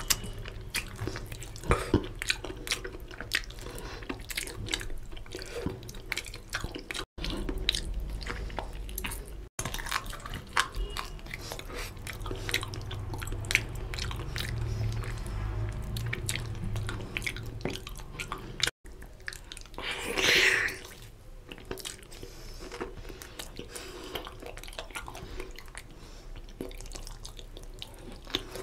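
Close-miked eating by hand: wet chewing, lip-smacking and sticky mouth clicks as a mouthful of rice and mutton curry is worked, with a louder sucking slurp about twenty seconds in.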